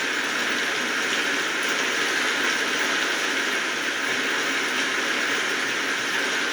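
Steady rainfall: an even hiss of many drops that holds level without a break.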